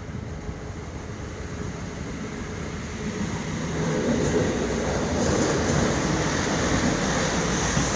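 Diesel multiple-unit passenger train passing on the main line, its rumble and wheel noise building from about three seconds in and then holding steady.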